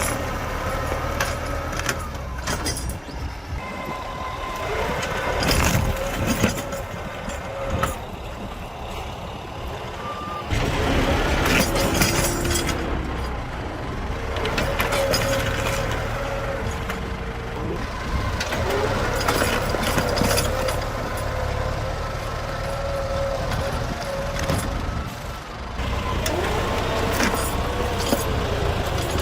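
Tractor engine running steadily under load while pulling logs, with scattered knocks and clanks.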